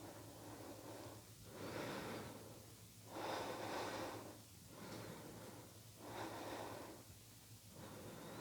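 Faint, slow breathing through the nose: a series of soft breaths in and out, each about a second long, drawn while holding chair pose.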